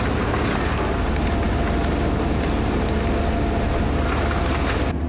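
Diesel engine of a Merlo crane running steadily as the machine is driven forward, a low engine hum under a broad rushing noise. Right at the end the rushing noise drops away, leaving the lower engine hum.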